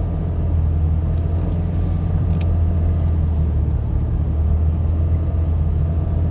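Pickup truck driving: a steady low engine and road drone heard from inside the cab.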